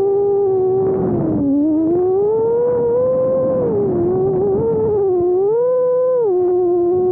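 FPV freestyle quadcopter's motors and propellers whining, the pitch gliding up and down as the throttle changes: it dips about a second and a half in, climbs and holds, dips again near four seconds, rises briefly around six seconds, then settles. A rougher rushing noise runs under the whine, strongest around one second in and again about four seconds in.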